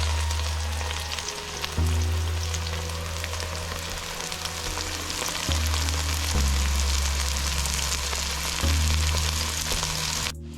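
Food sizzling as it fries in hot oil in a pan, a steady crackling hiss, with background music's low bass notes changing every second or two underneath.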